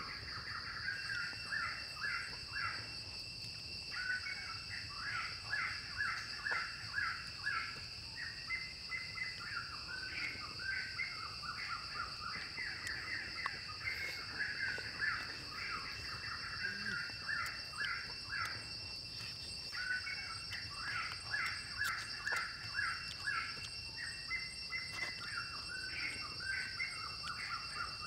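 Birds chirping in quick runs of short repeated notes over a steady high-pitched insect drone, with the chirping pausing briefly a few seconds in and again past the middle.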